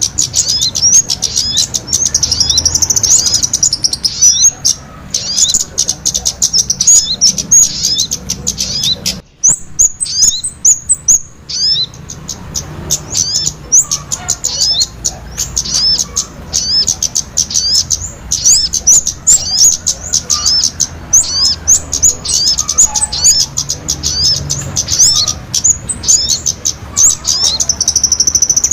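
Small songbirds chirping: a dense, rapid stream of short high-pitched chirps, a lure call recording for attracting small birds. The chirping breaks off briefly about nine seconds in, then picks up again.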